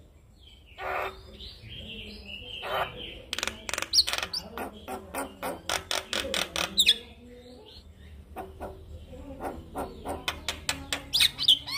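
Male Javan myna (jalak kebo) singing a varied, chattering song. It gives fast runs of sharp clicking notes, about four a second, with an occasional whistled upward slur, and breaks off briefly in the middle.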